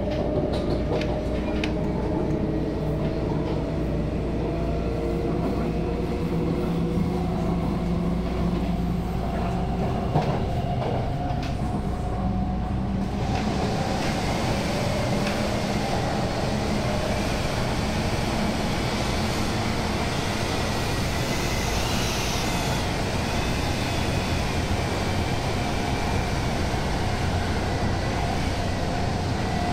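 Cabin running noise of a moving MTR Tung Chung line A-train: a steady rumble with several whining tones from the running gear. About 13 seconds in, the noise turns brighter and hissier.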